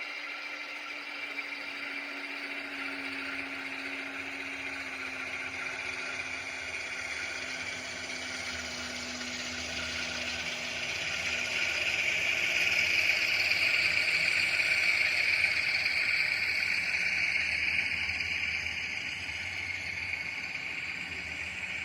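H0 model train running on the track, a steady mechanical whir and rattle that grows louder about halfway through, stays loud for several seconds as it passes close, then eases off.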